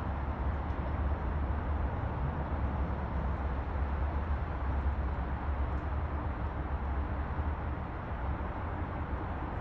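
Steady outdoor background noise, a low rumble with hiss above it, running evenly without distinct tapping.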